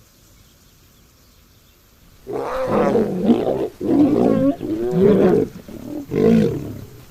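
Lioness roaring defensively while cornered by rival lionesses: a series of about four loud roaring calls with sliding pitch, starting about two seconds in.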